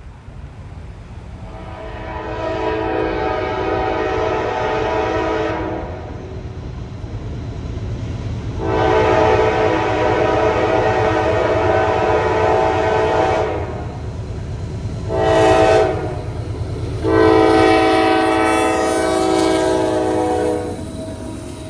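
Norfolk Southern diesel locomotive's multi-chime air horn sounding the grade-crossing signal: two long blasts, a short one, then a long one. Underneath is a steady low rumble of the approaching train, growing louder.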